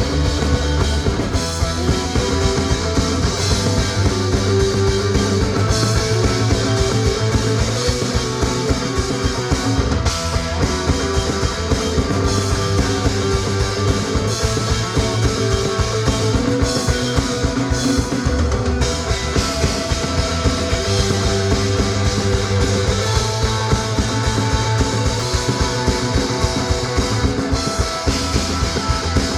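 Rock band playing live: drum kit and electric guitars in a steady, driving instrumental passage.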